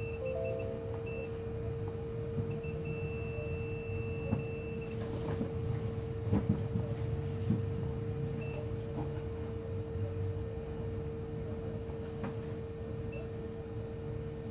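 Digital multimeter's continuity buzzer beeping at one high pitch: several short beeps and one held for about two seconds, the pattern of probe tips touching and leaving connected points on a laptop motherboard. A steady hum and low rumble from the bench run underneath, with a few light clicks.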